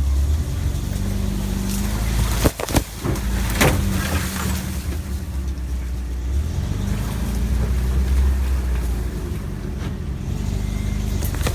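Motor vehicle engine running steadily with a low hum, with a few sharp knocks about two and a half to four seconds in.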